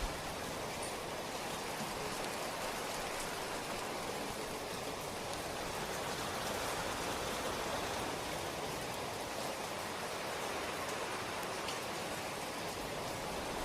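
Steady, even rain falling, with a few faint drop ticks.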